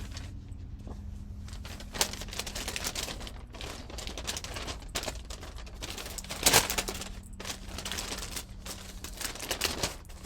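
Craft materials being handled and rummaged through: irregular rustling, crinkling and light clicks, with a louder clatter about six and a half seconds in.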